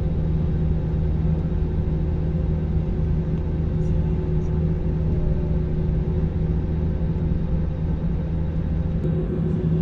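Steady low drone of a jet airliner's engines and airflow heard from inside the passenger cabin, with a constant hum under an even rumble.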